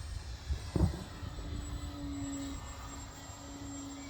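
Electric RC model aerobatic plane (Flex QQ Extra 300) in flight, its motor and propeller giving a steady hum that breaks off briefly and returns. A sharp knock just under a second in is the loudest sound.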